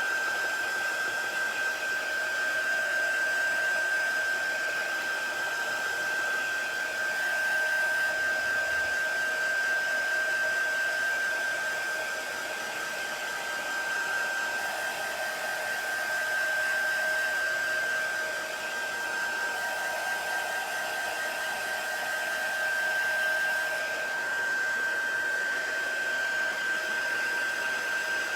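Hair dryer blowing steadily, a constant rushing of air with a high whine, drying freshly applied chalk paste on a craft board.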